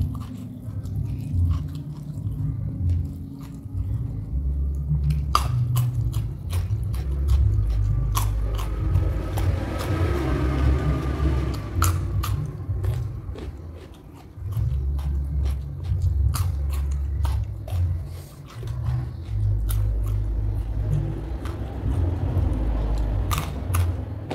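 Close-up chewing and biting of raw vegetables (lalapan), with many sharp crunches scattered through and a low rumble underneath.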